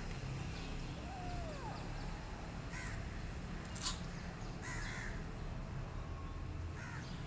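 Three short, harsh bird calls about two seconds apart, over a steady low hum.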